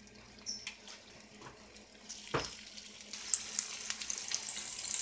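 Batter-coated cauliflower florets frying in hot oil in a nonstick pan as they are laid in one at a time. There are faint clicks and a single knock at first, then from about three seconds in the oil crackles and sizzles more and more as the pan fills.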